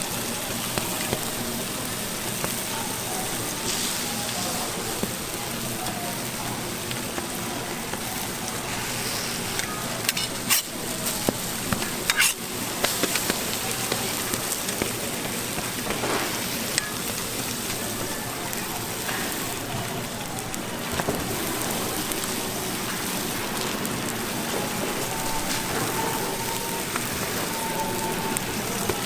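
Food sizzling steadily on a flat street-stall toast griddle, with a few sharp spatula clicks against the metal about ten and twelve seconds in.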